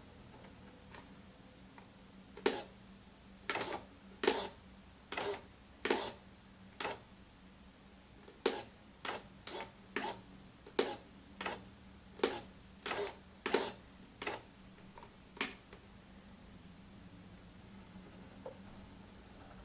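A model submarine's bow-plane mechanism working in short, separate mechanical bursts, about seventeen of them over some thirteen seconds, each lasting a fraction of a second, as the front planes are driven out and in.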